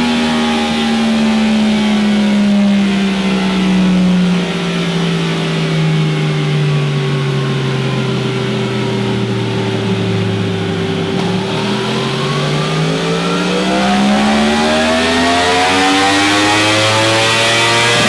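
Yamaha R1 inline-four engine through an aftermarket exhaust: its revs sink slowly for about eleven seconds, climb again over the next few seconds, and then hold steady near the end.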